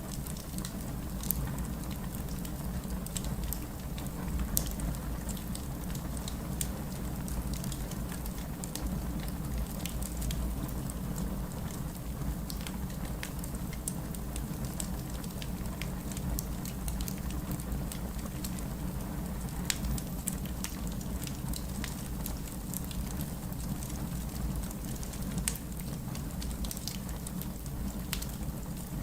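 Fireplace crackling with scattered sharp pops over a steady patter of rain and a low, even rumble.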